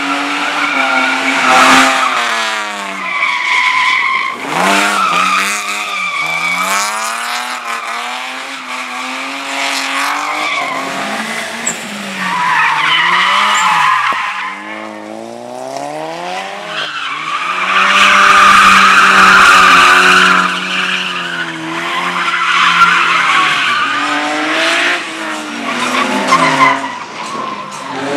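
A car at full effort through an autoslalom course: the engine revs up and drops back again and again as it is driven between the cones, and the tyres squeal through the turns, loudest in a long squeal about two-thirds of the way in.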